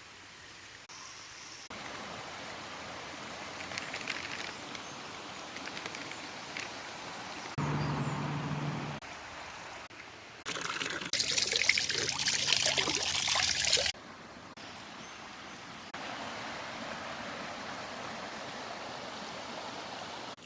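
Water trickling and pouring, heard as several short clips that change abruptly every few seconds; the loudest, brightest rush of water comes about halfway through.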